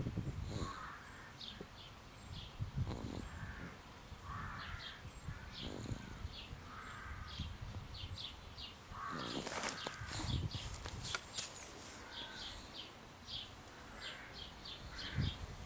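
A bird making a run of short, raspy snore-like calls, with brief high chirps between them and a louder burst of calls about nine to eleven seconds in.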